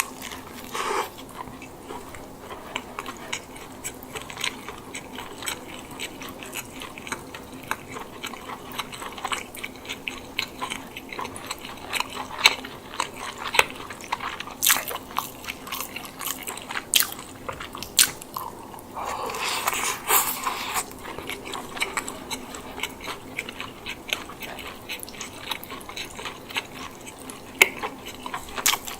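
Close-miked biting and chewing of a chicken bake, bread baked around herb chicken and mozzarella, with many small clicks and crunches. A denser, longer stretch of chewing noise comes about two-thirds of the way through.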